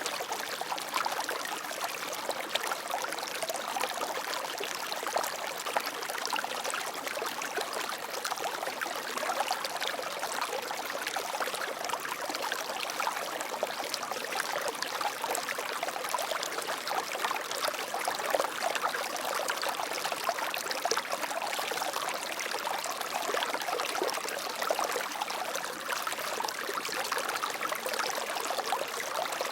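Water flowing steadily over rocks in a stream, a continuous bubbling and splashing rush.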